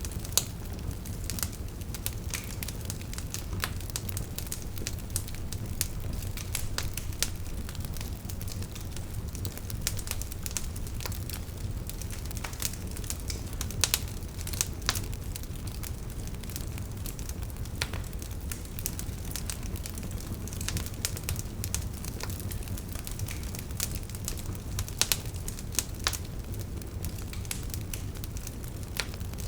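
Burning wood logs crackling, with frequent sharp pops scattered irregularly over a steady low rumble; a few pops stand out louder, about halfway through and again near the end.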